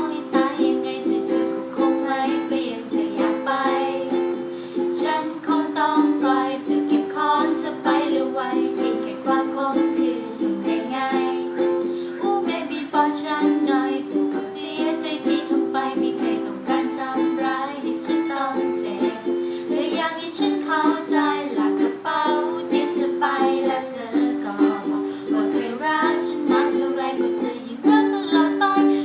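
Ukulele playing the steady, rhythmic chord accompaniment of a song.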